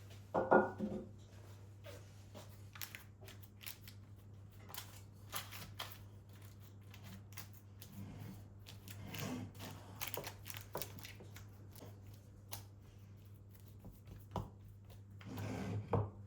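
Scattered light clicks and taps of household objects being handled, over a steady low hum, with a short ringing clink about half a second in and another near the end.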